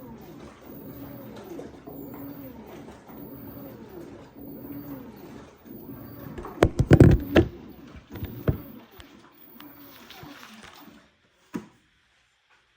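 LG WT16WV6 16 kg direct-drive washing machine agitating towels, its motor tone repeatedly rising and falling as the drum turns one way and then the other. A burst of loud knocks comes about seven seconds in, and the sound cuts off abruptly near the end.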